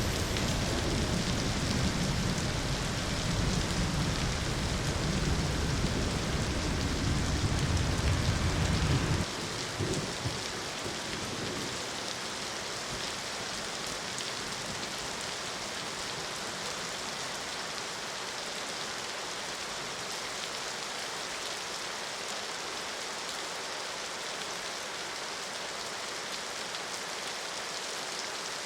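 Steady heavy rain falling. A deep low rumble lies under it for about the first nine seconds and stops abruptly, leaving the rain alone.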